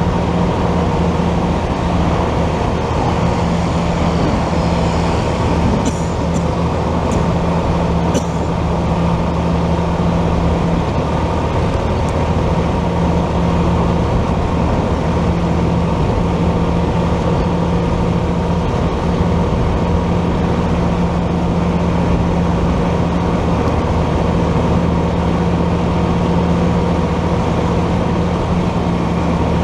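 Motorcycle engine running steadily while riding, under wind and road noise. A few brief high chirps sound about six to eight seconds in.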